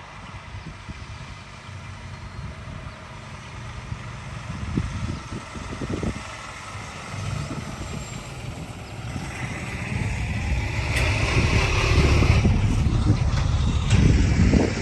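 A road vehicle passing by: a low rumble with a hiss of tyre noise that builds over several seconds and is loudest near the end.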